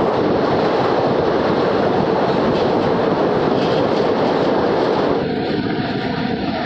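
Passenger train running fast downhill: a steady, loud rush of wheel and rail noise from the coach. About five seconds in, the rush eases a little and a few steady tones join it.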